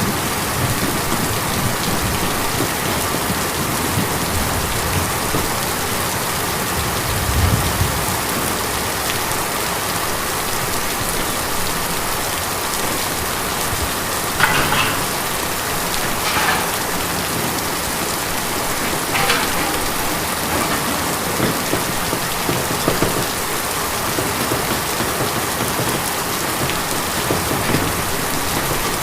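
Steady rain drumming on a tin roof, with a few louder single drops or drips standing out now and then.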